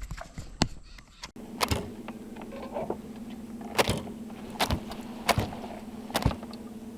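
Electric trolling motor humming steadily, with several sharp knocks on the boat's hull or deck.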